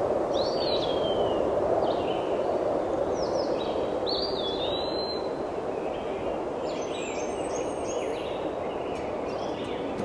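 Birds calling: short whistled calls that curve up and down in pitch, more of them overlapping in the last few seconds, over a steady rushing background of forest ambience.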